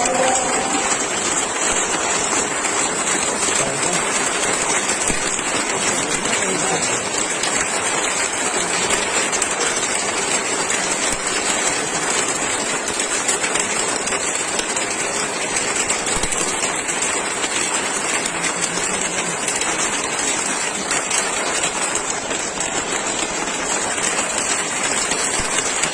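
Rain falling steadily, an even hiss that stays constant throughout.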